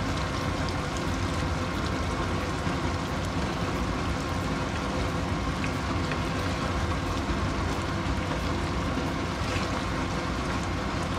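Broth boiling steadily in a pan on a gas stove as it is stirred with a wooden spatula: a continuous bubbling hiss.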